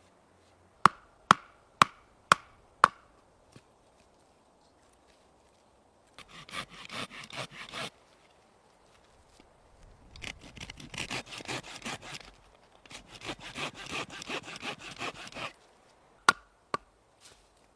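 Five sharp, ringing knocks about half a second apart, then a hand saw cutting wood in three bouts of quick back-and-forth strokes, and two more knocks near the end.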